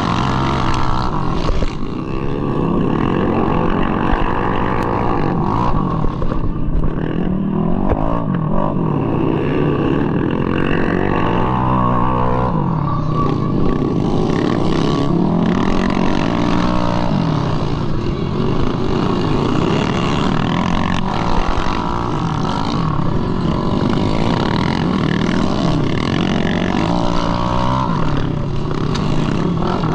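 Bored-up 200cc Mahindra Rodeo scooter engine, heard from on board. It revs hard, its note rising and falling again and again as the throttle opens and closes.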